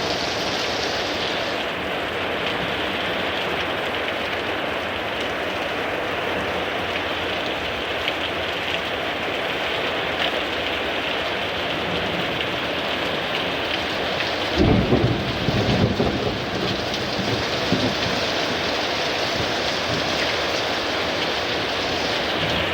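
Heavy thunderstorm downpour, rain pouring steadily, with a low rumble of thunder about two-thirds of the way through.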